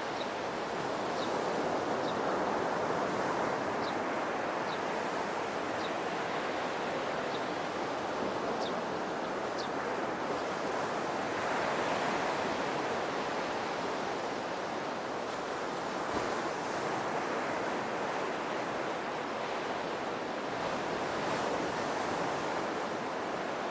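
Sea waves washing onto a beach: a steady surf wash that swells and eases every several seconds. Faint short high chirps come about once a second during the first half.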